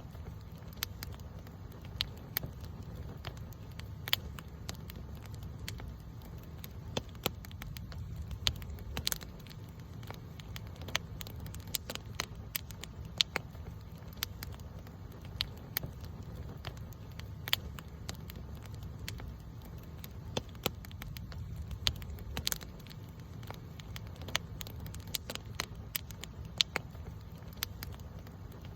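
Campfire crackling, with irregular sharp pops and snaps of burning wood, several a second, over a steady low rumble.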